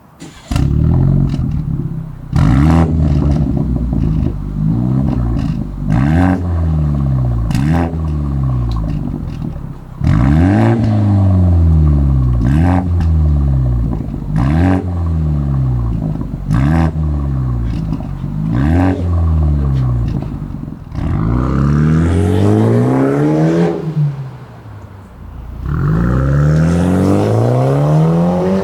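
BMW G20's 2.0-litre turbo four-cylinder running through an aftermarket performance exhaust, revved in short blips about every two seconds, each rising and falling in pitch. Near the end come two longer, higher revs.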